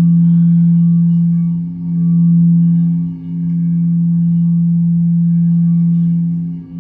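A sustained low ringing tone with several higher overtones, held steady and dipping briefly in loudness three times.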